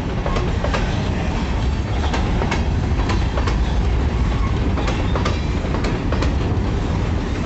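Freight train's grain cars rolling past close by: a steady heavy rumble with irregular clacking as the wheels cross rail joints.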